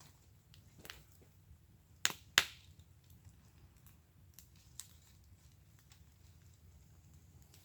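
Wood fire crackling in a fire pit: scattered small crackles, with two sharp, loud pops about two seconds in and a lighter pop near five seconds.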